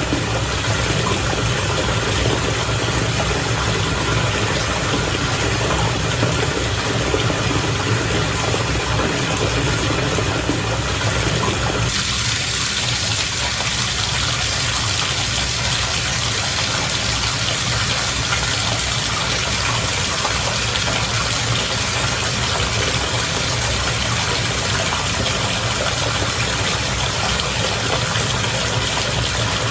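Steady bubbling, churning bath water with a low, even hum underneath. About twelve seconds in it turns brighter and more hissy.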